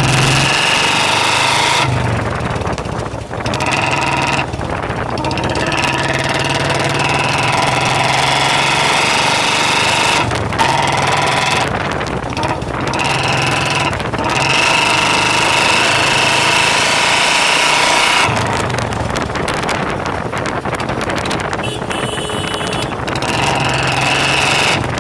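Royal Enfield single-cylinder engine running through a bent-pipe free-flow aftermarket silencer, the exhaust note loud and steady over a rushing noise. The steady note drops out briefly several times and comes back.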